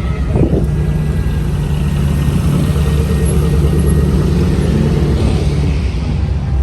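Car engine running with a low, steady rumble that eases off near the end.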